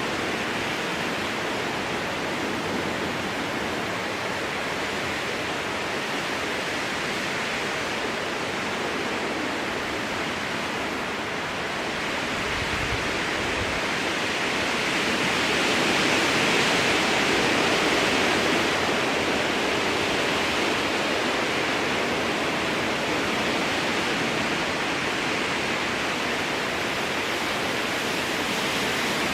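Strong wind blowing through a spruce forest, a steady rushing of needles and branches that swells in a gust about halfway through. A short low rumble of wind on the microphone comes a little before the gust.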